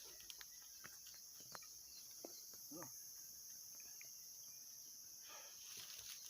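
Faint, steady, high-pitched drone of an insect chorus, with scattered light clicks and a short wavering sound about three seconds in.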